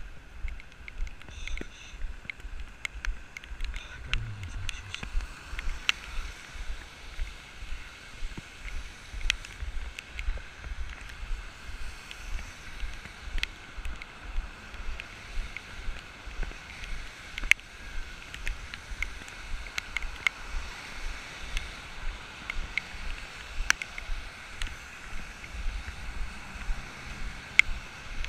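Running footsteps thudding in a steady rhythm of about two to three a second, with wind noise on the action camera's microphone.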